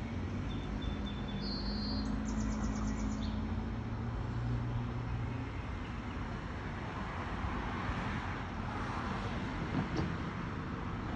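Steady background road traffic, with a few short high bird chirps between about half a second and three seconds in, one of them a quick run of pulses.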